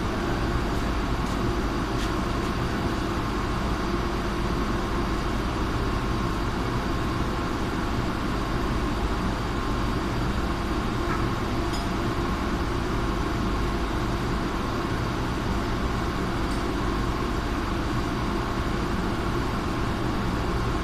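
Chiller machinery running steadily: a constant mechanical hum with several fixed tones and a few faint ticks.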